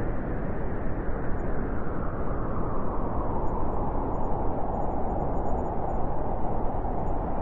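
Blizzard wind blowing through a forest: a steady rushing with a low rumble, swelling and easing slightly.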